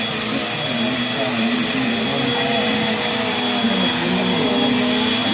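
Vacuum cleaner running steadily, a continuous rushing noise with a high whine.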